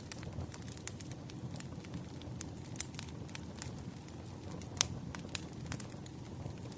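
Wood fire crackling: irregular sharp pops and snaps over a low steady rumble, with the loudest pop about five seconds in.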